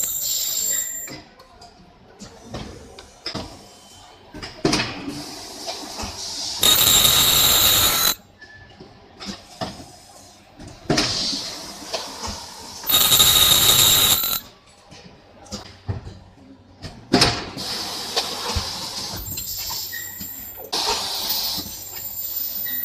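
Semi-automatic blister welding and cutting machine running through its cycles: several loud hissing bursts a second or two long, with clicks and knocks from the mechanism in between.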